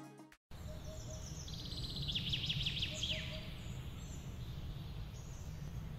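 A songbird sings a fast run of notes that steps down in pitch, about two seconds in, over a steady low outdoor rumble. A few faint short low calls come now and then.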